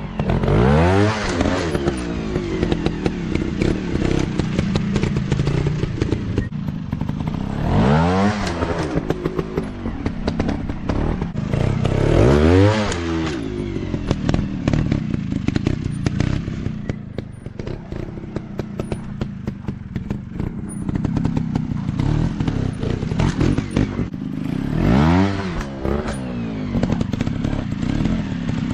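Off-road dirt bike engines running, revving up and dropping back four times over a steady lower-speed drone, with a lot of clatter and scraping throughout.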